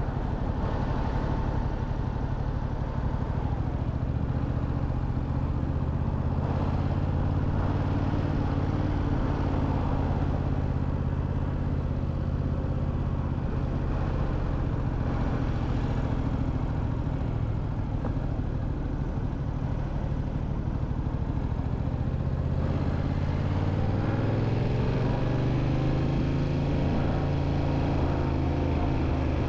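Motorcycle engine running under way, heard from the rider's own bike. The engine note dips about three seconds in and climbs again from about twenty-three seconds in as the bike speeds up.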